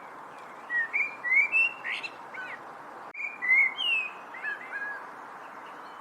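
A songbird sings two short phrases, each a quick run of whistled, slurred notes, with a brief pause between them. A steady hiss runs underneath.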